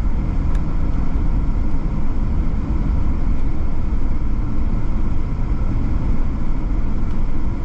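Steady road and engine noise heard from inside the cabin of a moving vehicle: a constant low rumble at highway speed.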